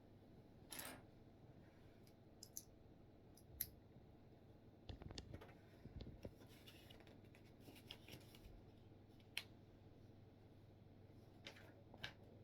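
Faint, scattered clicks and short rustles of plastic Lego pieces being handled and pressed together.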